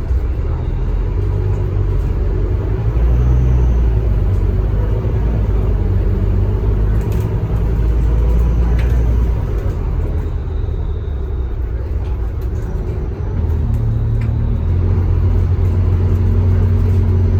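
Scania K310UB bus's five-cylinder diesel engine running with a deep rumble. It drops back briefly about two-thirds of the way through, then builds again near the end.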